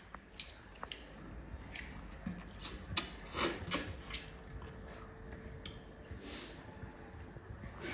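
Eating sounds at a meal: scattered clicks, scrapes and rustles of food being handled and chewed, a little louder around the middle.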